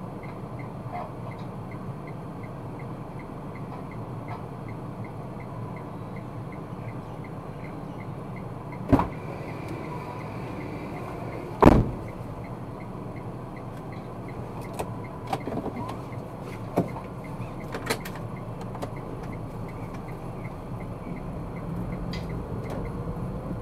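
Steady road and engine noise of a car heard from inside the cabin, with a faint regular ticking. Two sharp thumps about nine and twelve seconds in, followed by a few lighter knocks.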